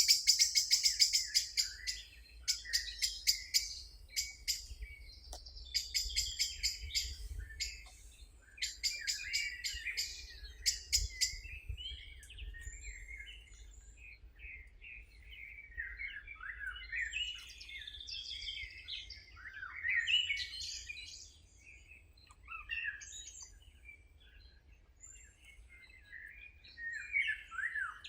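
Songbirds chirping and singing: rapid series of high chirps for the first dozen seconds or so, then varied, warbling phrases.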